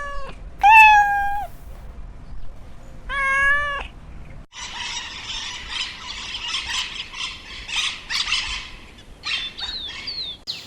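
Domestic cat meowing: two drawn-out meows, about two seconds apart. About four and a half seconds in, the sound cuts to a dense, noisy chatter with a few short high chirps near the end.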